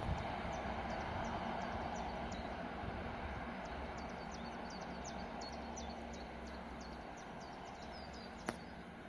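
Passenger train's rumble fading away as it recedes, with small birds chirping over it again and again in short high notes. One sharp click near the end.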